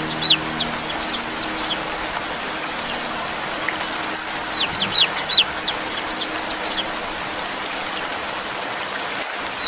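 Steady rain with a young chick peeping: two runs of quick, high, falling peeps, one at the start and another about four and a half seconds in.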